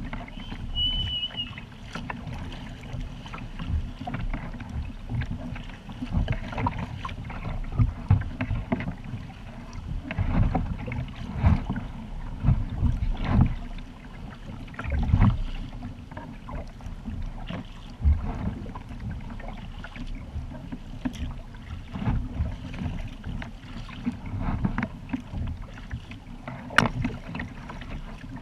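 Kayak paddling on open lake water: irregular paddle splashes and water lapping against the hull, over a steady low rumble of wind on the microphone. A brief high chirp comes about a second in, and a sharp click near the end.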